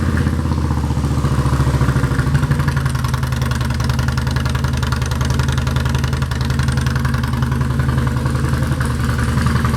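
2016 Harley-Davidson Softail Slim's V-twin idling steadily and loud through Vance & Hines exhaust pipes, which the seller guesses have had their baffles removed.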